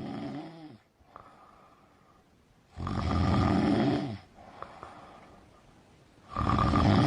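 A dog snoring: two loud snoring inhalations about three and a half seconds apart, each lasting over a second, with quieter breaths between them.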